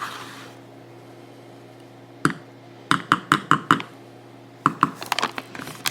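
A run of light, sharp clicks and taps in small clusters: one about two seconds in, a quick run of about six just after, and a few more near the end, over a low steady hum.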